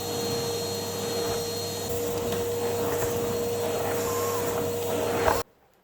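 Vacuum cleaner running with a steady motor whine, then switched off about five seconds in, the sound cutting off abruptly.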